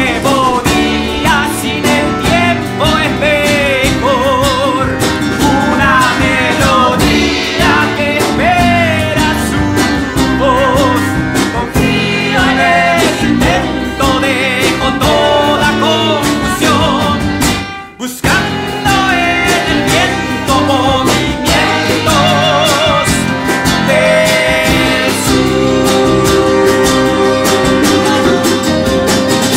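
Live folk-rock band playing a song with singing, acoustic guitar, bass and drums, with sustained melody lines from bowed violin or bandoneón. About eighteen seconds in, the music drops out for a moment, then comes straight back in.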